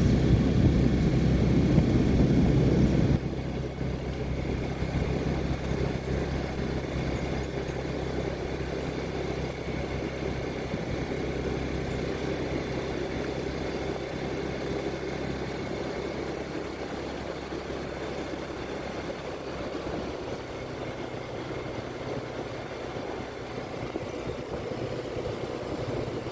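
A vehicle engine running steadily, louder for about the first three seconds and then dropping to a lower, even level.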